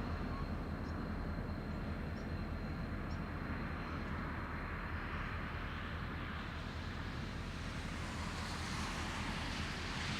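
Diesel-electric freight locomotives running with a steady low engine rumble. A rushing hiss builds from about halfway through and grows louder near the end.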